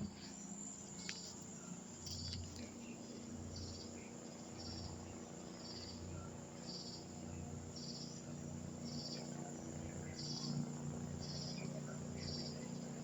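Crickets chirping in a steady rhythm, about one chirp a second, over a low steady hum from a helicopter circling at a distance.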